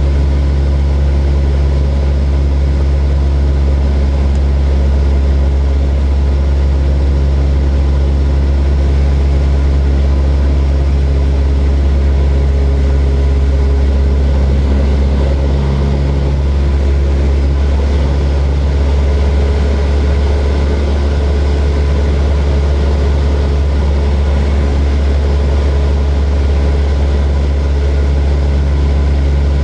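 Propeller airplane engine droning steadily in flight, a loud, even hum with a deep low rumble and a slight change in tone about halfway through.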